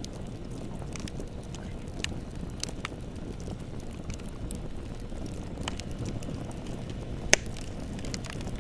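Wood bonfire burning: a steady low rumble of flames with scattered crackles, and one loud sharp pop near the end.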